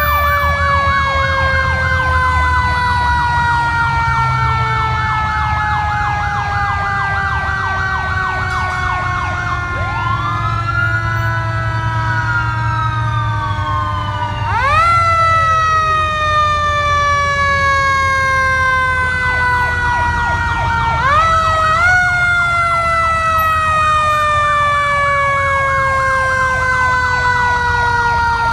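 Several fire truck sirens sounding together. One siren's long tone slides slowly down in pitch and is wound sharply back up twice, while another yelps rapidly and a third gives one rising and falling wail. Truck engines rumble steadily underneath.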